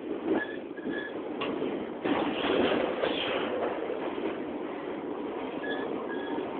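Double-stack intermodal freight train rolling past close by: a steady rumble of steel wheels on rail, with two brief high squeaks, about half a second in and again near the end.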